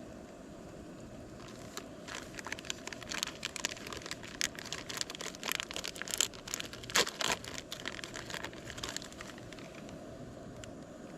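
Crinkling and rustling, as of something being handled and crumpled, for several seconds over a steady low rumble, with the loudest crackles about seven seconds in.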